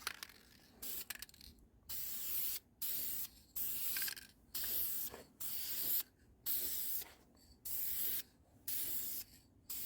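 Paint being sprayed onto a car body panel in about nine short hissing passes, with brief pauses between them, while the second coat goes on over a rust repair.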